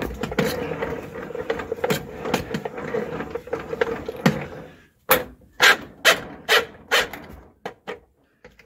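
Pistol-grip drain snake spinning its cable in a drain pipe, a steady whirring for about five seconds, then a run of sharp clacks.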